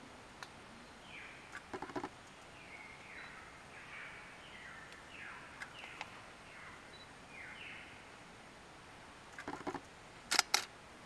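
A bird calling: a run of short notes, each sliding down in pitch, repeated every half second or so for several seconds. A few sharp clicks or rustles come at about two seconds, and the loudest, a quick pair, just before the end.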